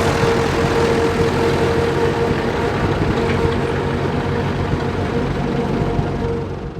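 Large six-cylinder tractor diesel engine running steadily, with a steady whine over the engine note; the sound fades out near the end.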